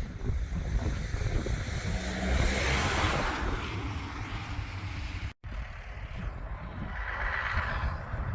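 Heavy trucks driving past, the sound swelling and fading as each goes by, with wind rumbling on the microphone throughout. The sound cuts out for an instant about five seconds in.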